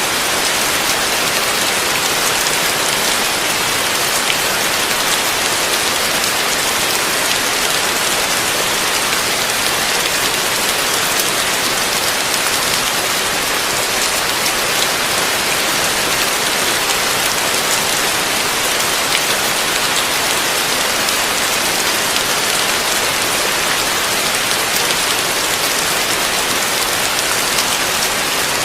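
Heavy rain falling steadily: a dense, even hiss of countless drops, unchanging throughout.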